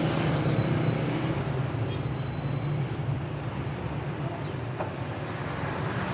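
A steady low engine rumble with a thin high squeal during the first two seconds.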